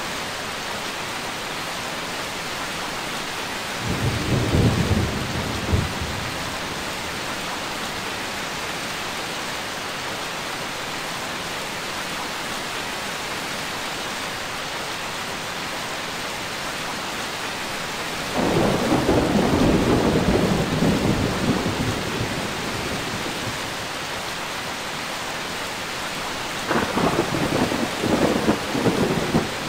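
Steady heavy rain with three rolls of thunder: a short one about four seconds in, a longer rumbling one from about 18 to 22 seconds, and another near the end.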